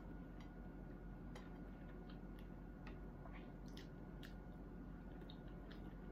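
A person chewing food with mouth smacks, scattered short clicks and wet squishy sounds, over a steady low hum.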